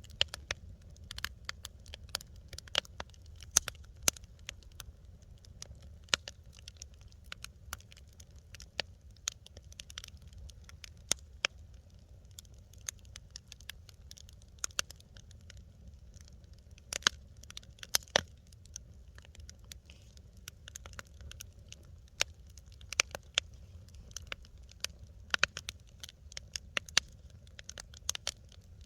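Wood fire crackling in a fireplace: irregular sharp pops and snaps, several louder cracks among them, over a low steady rumble of the flames.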